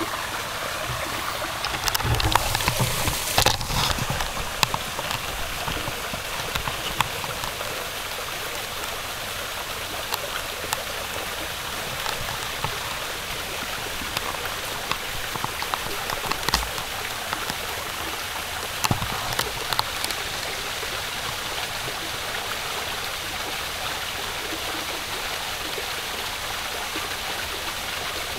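Steady rush of running water, a creek or stream. A few knocks and bumps stand out about two to four seconds in, with occasional faint ticks after.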